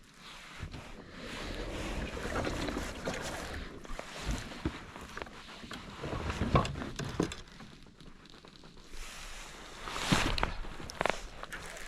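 Handling noise in a fishing kayak: scattered knocks and rubbing against the hull and gear, over a steady noisy haze, with the loudest knocks about midway and near the end.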